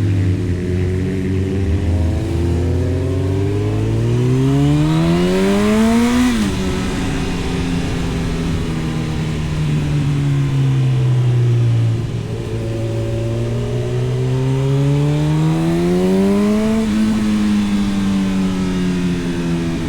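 A 2011 Honda CB1000R's inline-four engine with an Arrow exhaust, under way: it pulls up through the revs, cuts off sharply about six seconds in and runs down slowly, then climbs again to a second peak near the end and eases off.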